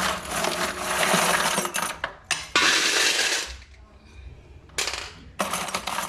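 Loose steel nails clinking and rattling as they are handled and poured out for weighing, with a louder pour about two and a half seconds in and a short lull a second later.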